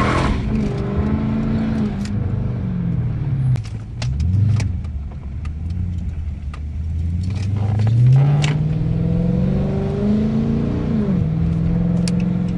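2013 Dodge Charger R/T's 5.7-litre HEMI V8 under hard throttle: its pitch climbs, holds and drops, blips briefly about four seconds in, then climbs steadily for several seconds before falling away near the end as the throttle is lifted. Scattered sharp clicks sit over the engine.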